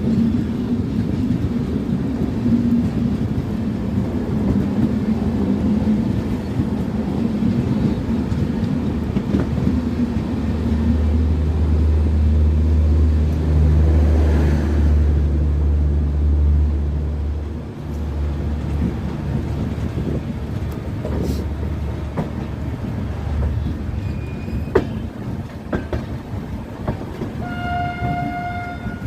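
Indian Railways passenger train running, with steady rail and running noise and a deep rumble that swells for several seconds in the middle. A short horn sounds near the end.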